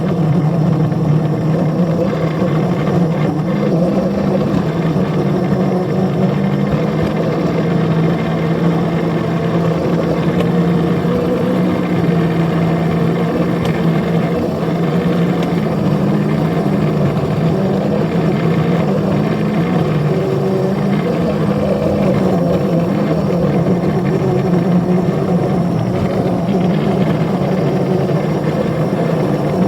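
Engine of a small ride-on railroad locomotive running steadily under load.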